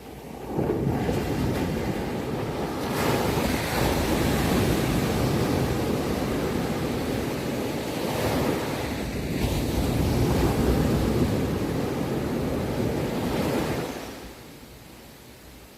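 Sea waves washing onto the shore: a continuous rush of surf that swells several times, then dies down to a softer wash near the end.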